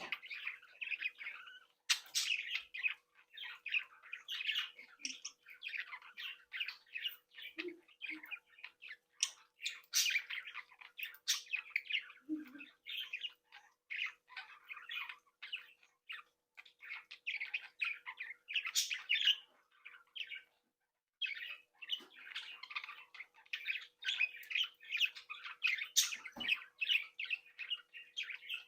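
Several budgerigars chattering and warbling together, a continuous mix of quick chirps, twitters and squawks, with a brief pause about two-thirds of the way through. A faint steady hum runs underneath.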